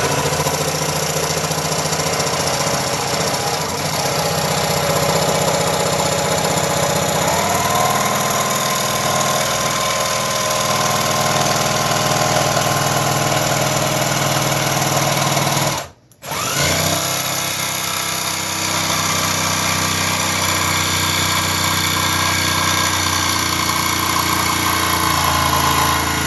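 Cordless jigsaw cutting through wood, its reciprocating blade running steadily under load. It stops briefly about two-thirds of the way through, then spins back up and carries on cutting.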